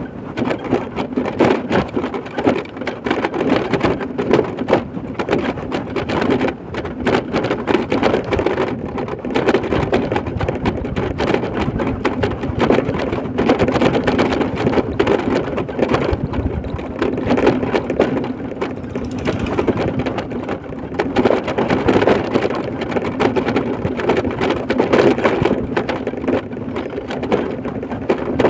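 Running noise of a vehicle travelling a rough road under construction: a steady rumble with constant rattling clicks and knocks.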